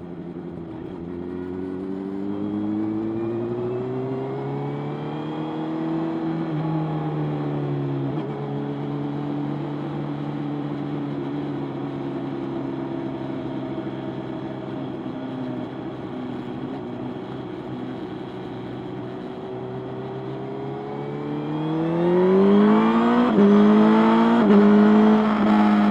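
Motorcycle engine under way: it revs up through the first gear or two with shifts about six and eight seconds in, holds a steady cruise, then accelerates hard near the end with two quick upshifts, the loudest part.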